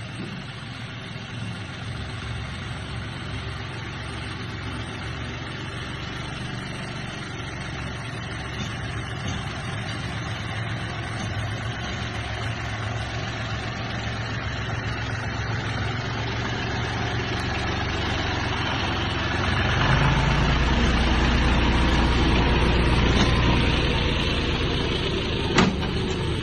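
John Deere tractor engine running steadily, slowly growing louder, then louder and heavier for a few seconds about twenty seconds in. A single sharp click near the end.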